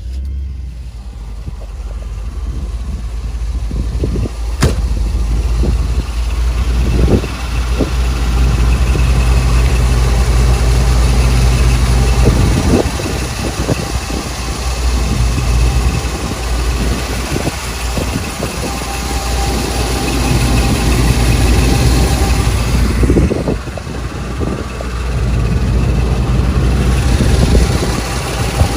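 Chevrolet Corvette's 350 small-block V8 catching right at the start and then running steadily at idle, its note dipping and picking back up twice.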